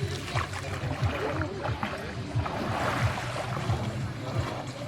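Sea water splashing and sloshing, with an irregular low rumble underneath.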